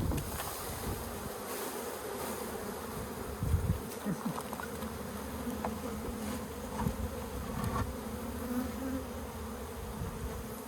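A honeybee colony buzzing steadily as it is moved from a birdhouse into a hive box, with a few light knocks from handling, the clearest about three and a half seconds in.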